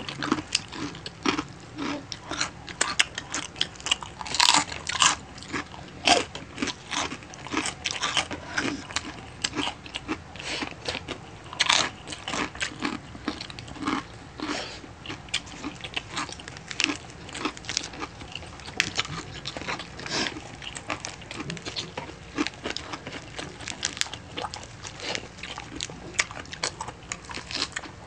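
Two people eating at close range: a constant irregular run of crunches and chewing as they bite into crispy chicharon (pork rinds), lettuce and adobo chicken feet.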